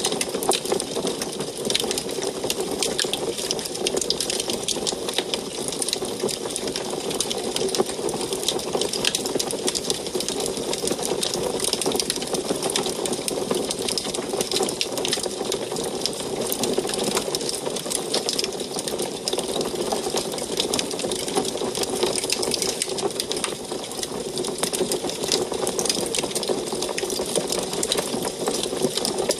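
Wood fire burning in an antique wood stove: dense, continuous crackling with many small pops over a steady low rush of the flames.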